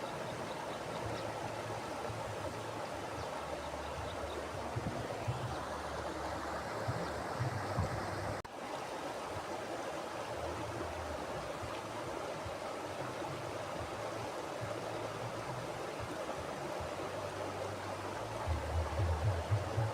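Mountain river flowing steadily, a continuous rushing of water. Low rumbling comes and goes underneath, heaviest near the end, and the sound dips briefly about eight and a half seconds in.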